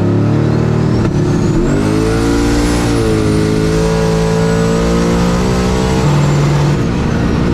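Turbocharged V8 drag car engine running hard at high revs, its pitch climbing about one to three seconds in and then holding, with a high turbo whistle that rises and later falls away.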